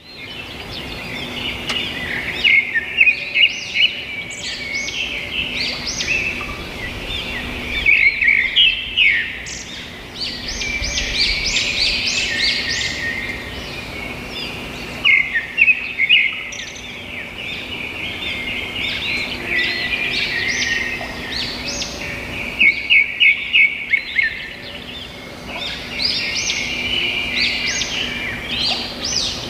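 Birds singing and chirping in a busy chorus of high, quick notes. Loud runs of rapid chirps return about every seven seconds. A faint steady low hum lies underneath.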